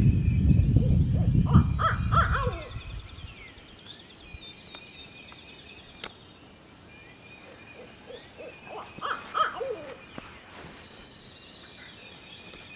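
Barred-owl-style hoots blown on a hoot owl call: a short run of notes near the start over a low rumble, and another run about nine seconds in. Songbirds chirp faintly in between.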